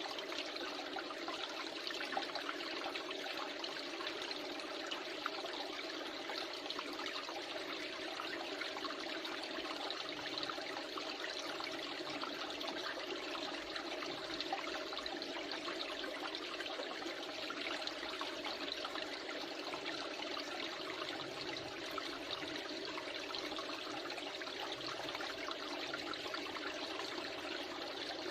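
Steady rush of flowing water from a small river.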